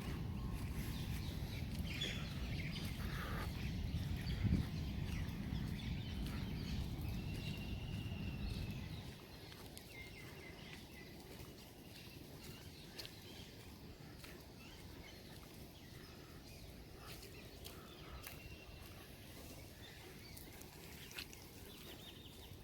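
A low rumble for about the first nine seconds, with one louder knock near its middle, then it stops. After that, birds chirp now and then over a quiet outdoor background with scattered faint clicks.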